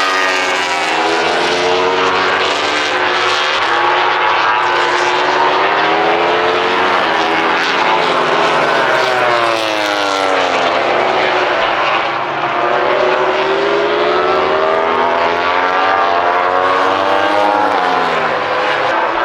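Several MotoGP racing motorcycles at full throttle past the trackside, their 1000 cc four-stroke engines screaming at high revs. Their pitches overlap, rising through the gears and falling as the bikes brake and pass, with a brief dip about twelve seconds in.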